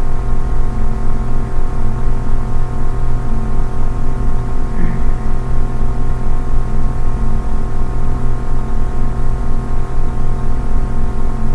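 Steady ambient drone: many sustained tones held together over a low hum, pulsing gently in loudness without a break.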